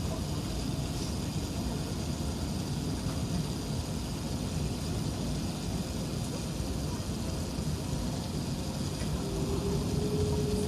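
Steady cabin noise inside an Emirates Airbus A380-861 with its Engine Alliance GP7200 engines running: an even rumble and hiss. A steady hum joins near the end.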